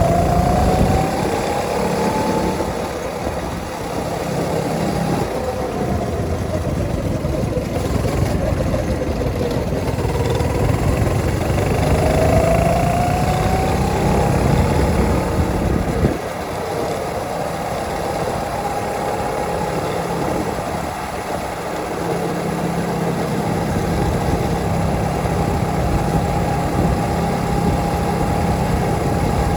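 Go-kart engine running during a drive. Its pitch rises and falls with the throttle twice, then holds steady for the second half, over a strong low rumble.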